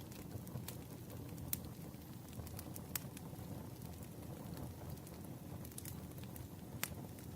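Campfire burning: a steady low rush with scattered sharp pops and snaps of crackling wood, the loudest pop near the end.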